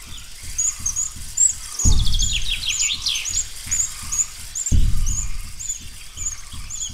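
Birdsong: a bird repeats a short high chirp about three times a second, and a second bird gives a run of falling notes around two to three seconds in. A few low thuds sound on the microphone, the loudest about two and five seconds in.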